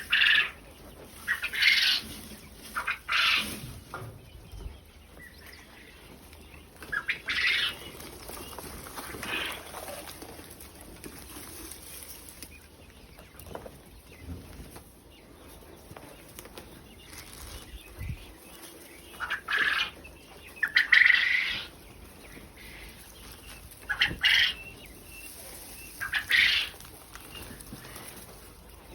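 Quail calling in their pen: short, loud calls repeated every few seconds, in a cluster near the start and another in the second half.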